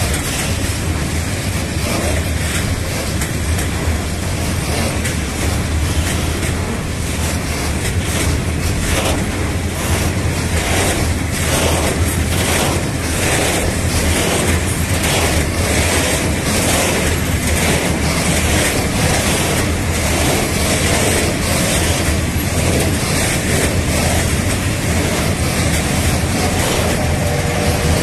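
Freight wagons being shunted by an electric locomotive: a steady heavy hum, with the wheels clacking regularly over rail joints through the middle. A squeal of several tones comes in near the end.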